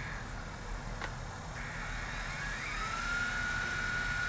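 Electric motor and rotor of an Eachine E120 RC helicopter whining at a steady high pitch; the whine drops away at the start, then glides back up to pitch about three seconds in and holds steady as the throttle is worked. A single click about a second in, over a low rumble of wind on the microphone.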